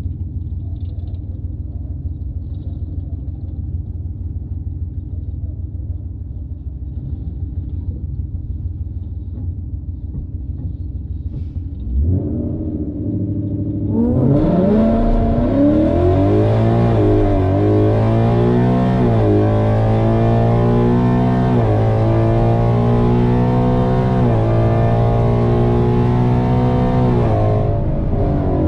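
Ford Mustang GT's V8 with a full aftermarket exhaust rumbling steadily at low revs. About twelve seconds in it picks up, then launches hard and revs up through a quick series of automatic upshifts, pitch climbing and dropping back with each gear. The sound cuts off suddenly at the end.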